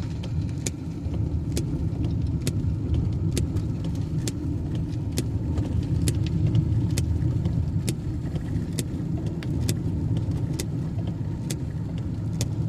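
Inside a moving car on a rain-soaked road: steady engine and tyre rumble, with a sharp click repeating about once a second.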